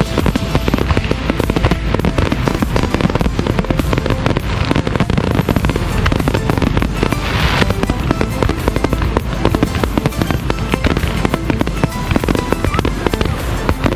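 Aerial fireworks going off in a dense, unbroken barrage of bangs and crackles, many shells bursting at once, with a brief hiss about halfway through.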